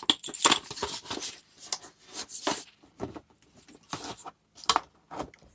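Things being shifted and handled on a cluttered workbench: a run of irregular knocks, rubs and scrapes with short pauses between them.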